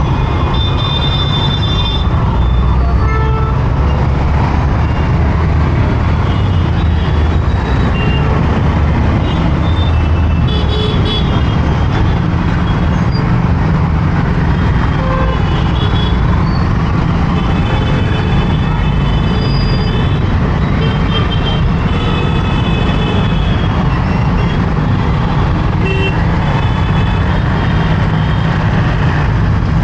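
Busy road traffic heard from a moving motorcycle: a steady loud rumble of engine and wind, with vehicle horns honking again and again throughout.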